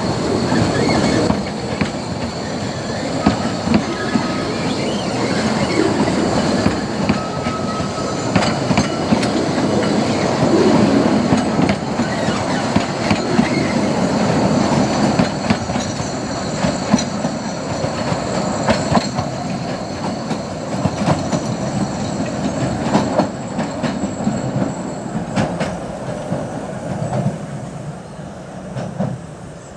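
Narrow-gauge railway train running along the track: a steady rumble of wheels with clicks over rail joints and a thin high-pitched flange squeal. It fades away near the end.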